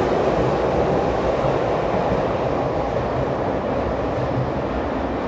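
Tokyu 6000 series electric train pulling out of the station: the running rumble of its last cars passing, fading steadily as the train draws away.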